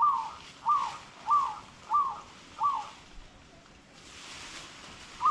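A bird calling: five short whistled notes, each rising then falling in pitch, evenly spaced about two-thirds of a second apart, stopping about three seconds in.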